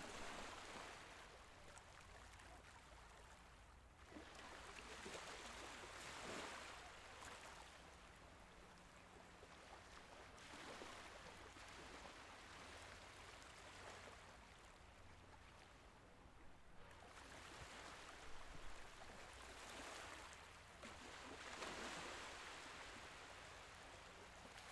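Gentle Mediterranean Sea waves washing in and drawing back, a soft wash that swells and fades every few seconds.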